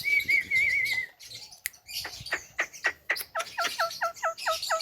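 Javan myna calling: a warbling whistle, then a run of sharp clicks, then a quick series of repeated falling whistled notes, about four a second.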